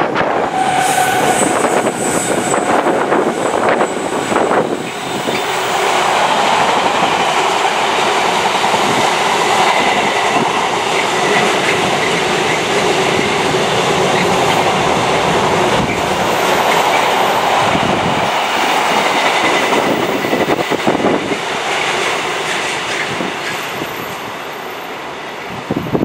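Container freight train passing close by: the wagons' wheels clatter over the rails in a steady loud rumble, with a thin squeal running through it.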